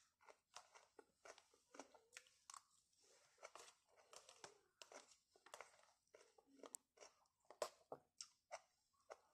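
Faint close-up chewing and crunching of fresh vegetable salad, irregular crisp crunches a few times a second, with an occasional sharp click of a plastic fork against the plastic container.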